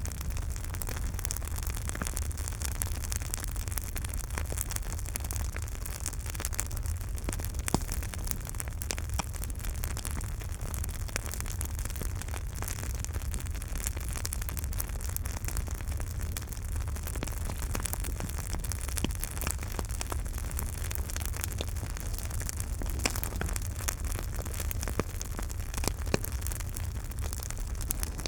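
Campfire burning with a steady low rumble of flames and frequent sharp crackles and pops of burning wood, a few louder pops standing out.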